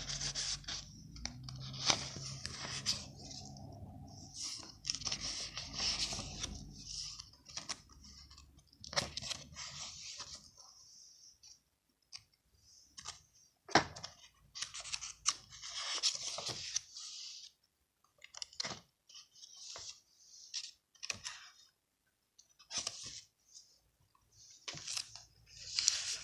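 Paper rustling and crinkling in irregular bursts, with occasional sharp clicks and brief pauses, as the paper pages of a handmade journal are handled.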